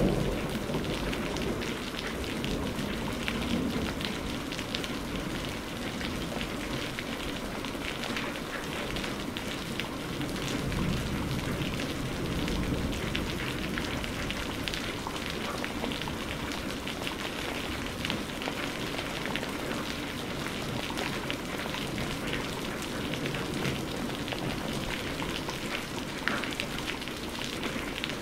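Steady heavy rain falling on surfaces, a dense even hiss full of fine drop ticks.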